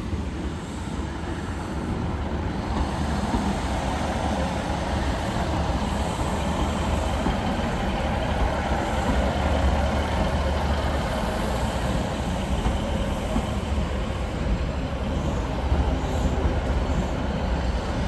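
Class 156 Sprinter diesel multiple unit pulling into the platform, its underfloor diesel engines running with a steady low rumble that builds over the first couple of seconds.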